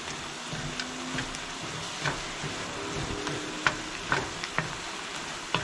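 Bacon jam (bacon and onions in a brown sugar, vinegar and maple syrup mixture) sizzling in a nonstick skillet as it reduces, with a wooden spoon scraping and knocking against the pan every second or so.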